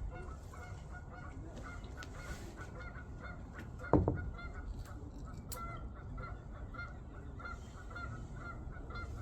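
Geese honking in a steady run of short, repeated calls, a few each second. One loud thump sounds about four seconds in.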